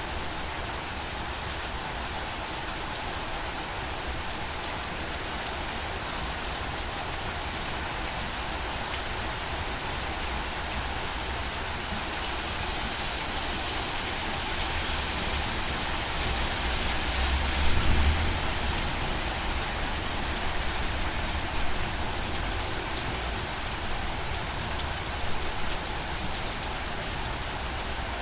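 Steady rain falling and pattering on surfaces, an even hiss of drops. A brief low rumble swells a little past halfway through, and a few slightly louder drops or spatters come near the end.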